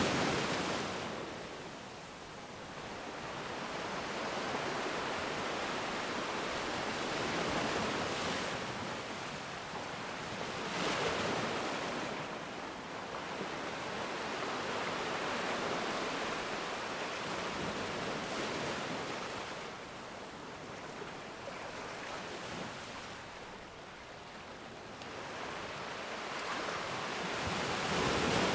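Ocean surf: waves breaking and washing in, a rushing hiss that swells and ebbs every several seconds and builds again near the end.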